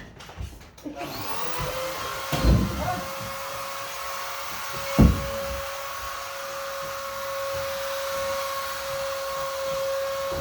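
Vacuum cleaner switched on about a second in and running steadily with a high whine. There are two knocks, at about two and a half and five seconds, and the second is louder.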